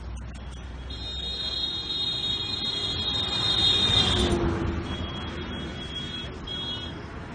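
A motor vehicle passing, its rumble swelling to a peak about four seconds in. A high steady tone sounds over it for about three seconds, cutting off as the rumble peaks, and a fainter short tone comes later.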